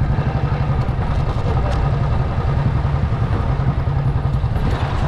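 A two-wheeler's engine running steadily as it is ridden along a street, giving a dense, even rumble.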